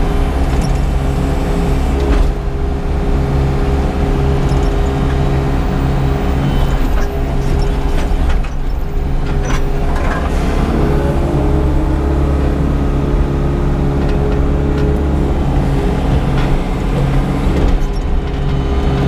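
Yanmar SV100-2A excavator's diesel engine running steadily while the machine works, heard from the operator's seat. There are a few knocks, and about ten seconds in the engine note briefly rises in pitch as it takes load.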